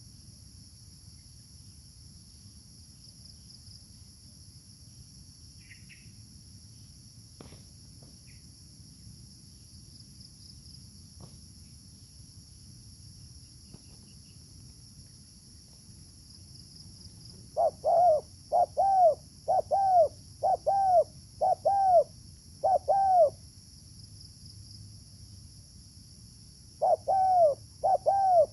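Spotted dove (terkukur) cooing: a run of six low, arched coos well into the clip, then after a short pause four more near the end. Insects drone faintly and steadily throughout.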